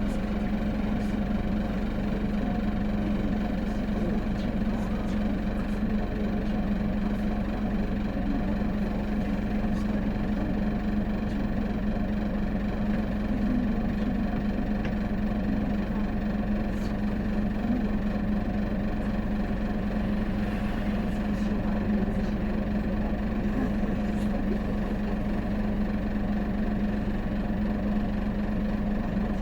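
Hino Blue Ribbon City diesel city bus heard from inside the passenger cabin, its engine running with an even, unchanging drone.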